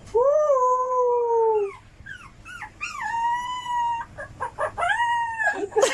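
A dog howling in long drawn-out calls, three of them with short yelps between.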